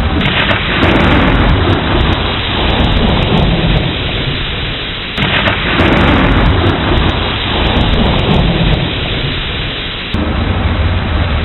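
Thunderstorm: steady heavy rain under rolling thunder. Fresh loud rumbles break in three times, about five seconds apart: at the start, about five seconds in, and near the end.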